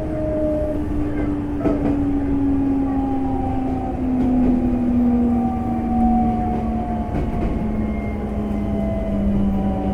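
Hitachi GTO VVVF inverter traction motors of a Semboku 5000 series electric train whining in several tones that fall slowly in pitch as the train slows on its brakes, heard inside the car over the low rumble of wheels on rail.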